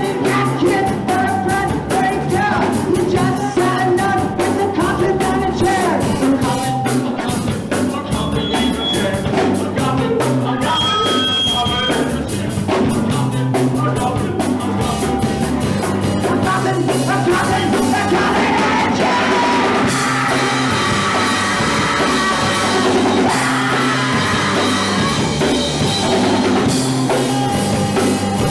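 Punk rock band playing live and loud: drum kit beating steadily under guitars and bass, with sung vocals.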